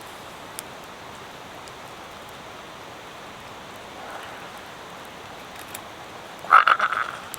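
Steady heavy rain, with a few sharp ticks. Near the end comes a loud harsh call of rapid pulses, lasting under a second, from a common brushtail possum.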